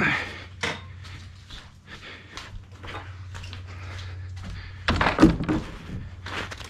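A few knocks and thumps over a steady low hum, the loudest a cluster of heavy thuds about five seconds in, like a door being shut.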